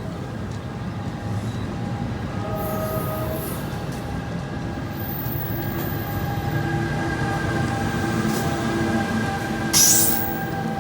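A train running by on the rails: a steady low rumble, with steady high-pitched wheel squeal building over the first few seconds. A brief loud burst of hiss comes near the end.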